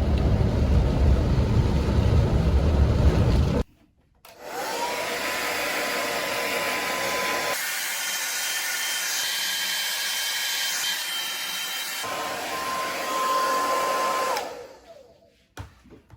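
A loud low rumbling noise, then after a sudden cut a small electric blower motor switched on: it spins up to a steady whine over a rush of air, runs for about ten seconds, and winds down near the end.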